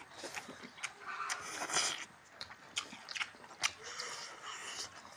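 Close-up eating sounds: people biting into and chewing meat and rice eaten by hand, with scattered sharp mouth clicks and smacks.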